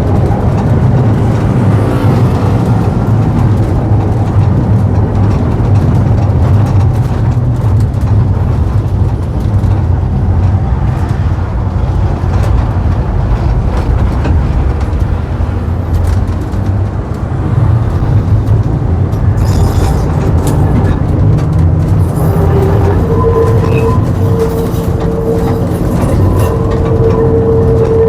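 Vintage tram running, a steady low rumble. Near the end a steady whine comes and goes in several stretches.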